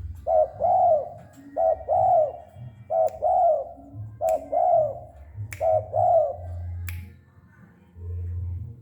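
Spotted dove (tekukur) cooing: a two-part coo, a short note then a longer arched one, repeated five times at a steady pace of about one phrase every 1.3 seconds. A few sharp clicks fall between the phrases.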